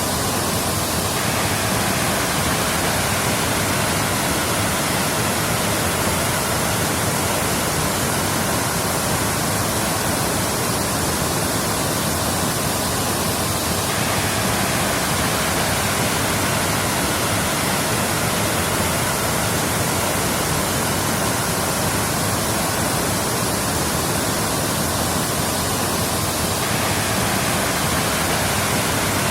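Waterfall: falling water making a steady, even noise with no breaks.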